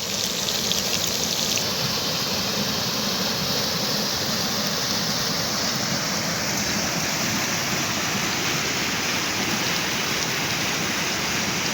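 Rushing water, a loud, steady, even noise.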